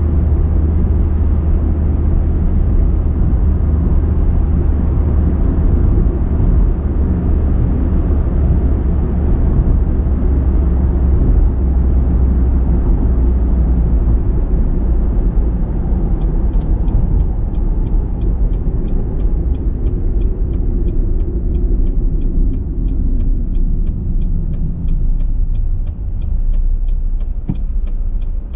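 A car on the move: a steady low rumble of road and engine noise that eases off near the end. A regular faint ticking, about two a second, starts about halfway through.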